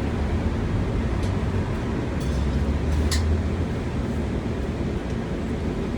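Steady low rumble of outdoor street noise, with a few faint short clicks.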